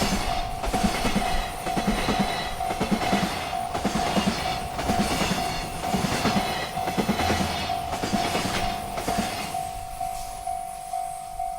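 Freight train rolling past, its wheels clicking rhythmically over rail joints, while a railroad crossing bell rings with a steady repeating ding. The train noise falls away near the end and the crossing bell keeps ringing.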